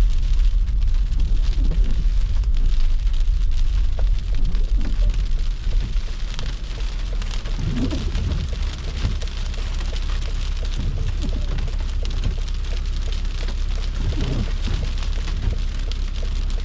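A car driving on snow-covered, slushy streets in a snowstorm: a steady low rumble of the car with an even hiss of tyres on wet snow and slush, and scattered faint ticks. The rumble eases slightly about six seconds in.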